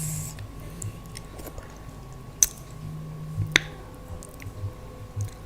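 Eating sounds from a meal of daal and rice: soft chewing and mouth noises, with two sharp clicks about a second apart near the middle.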